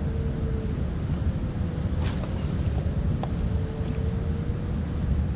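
Riverbank ambience: a steady high insect drone over a low wind-like rumble, with a faint steady hum and one brief swish about two seconds in.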